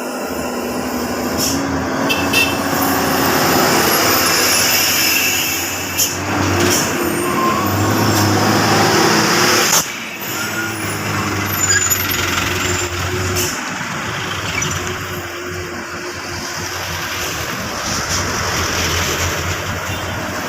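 Heavy diesel truck engine running as the truck crawls slowly down a steep descent. Its pitch climbs through the first half and drops off sharply about ten seconds in, with a high hiss in the first half.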